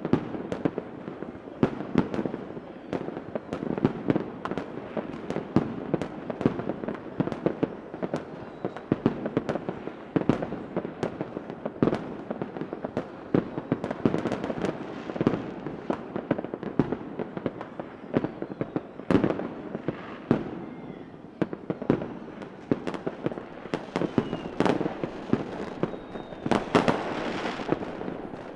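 Fireworks going off continuously: a dense rumble of bursts with many sharp cracks and bangs scattered irregularly, and a few faint whistles falling in pitch near the end.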